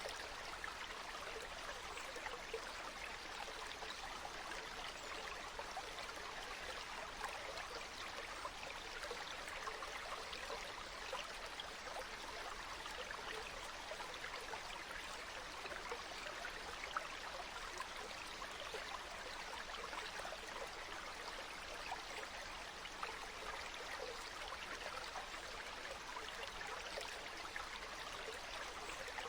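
Water flowing in a stream, a steady babbling rush with many small splashes.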